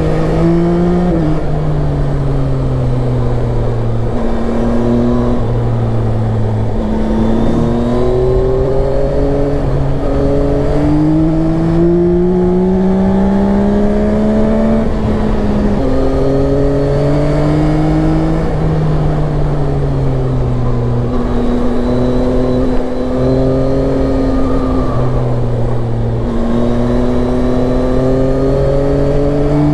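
Yamaha Tracer 9 motorcycle's 890 cc inline three-cylinder engine pulling through the gears on the move. Its pitch climbs steadily and drops sharply at each upshift, about a second in, near seven seconds and near sixteen seconds, over a low rush of wind.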